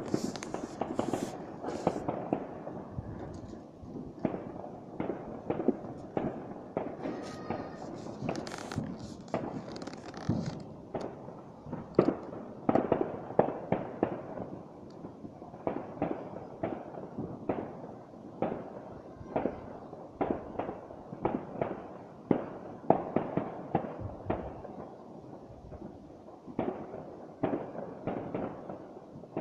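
Fireworks and firecrackers going off all around, a dense irregular crackle of many bangs and pops with echoes, some louder reports standing out.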